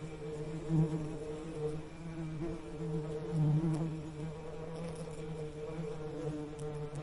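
Bee buzzing: a steady low hum that wavers slightly in pitch, swelling louder about a second in and again around the middle.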